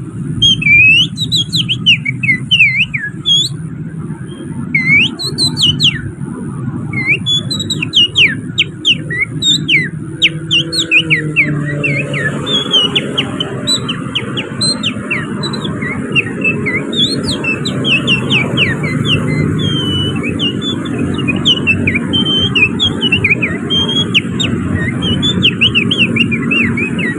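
Bird-song imitation whistled by hand through the fingers: fast chirps and short rising and falling whistles copying an oriental magpie-robin's song. It comes in broken bursts at first and runs almost without pause from about halfway on, over a low traffic rumble.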